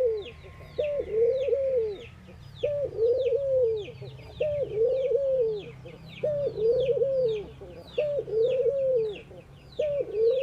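Ringneck dove cooing over and over, about six calls each roughly two seconds apart: a short note followed by a longer rising-and-falling coo. Small birds chirp continuously in the background with quick, high, falling notes.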